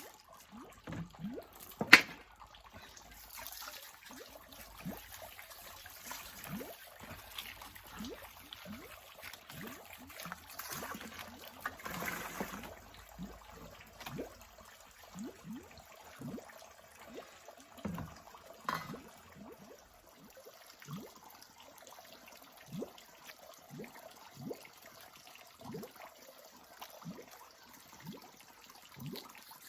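Water trickling and dripping, with small drops plopping into water every second or so. A single sharp knock about two seconds in is the loudest sound.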